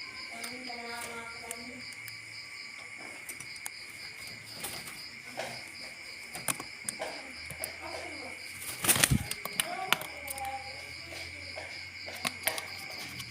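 Steady insect drone and an evenly pulsing trill, with scattered short bird calls. A brief burst of flapping and rustling comes about nine seconds in.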